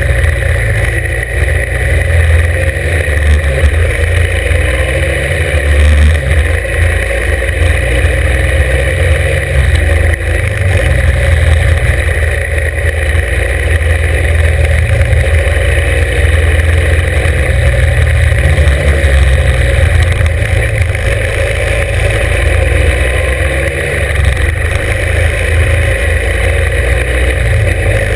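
Norton 750 Commando's parallel-twin engine running hard on a hill climb, its revs rising and falling again and again as the bike accelerates and eases off. It is loud throughout.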